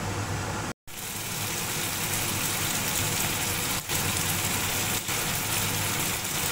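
Pork and lai greens frying in a kadai: a steady, loud hiss of sizzling, broken by a brief silence just under a second in.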